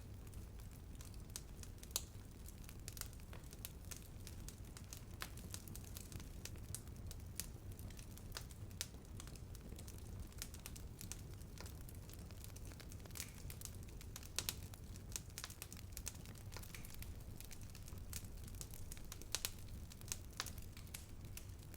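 Wood fire burning with a low steady rumble and scattered sharp crackles and pops, a few louder snaps about two seconds in, around the middle and near the end.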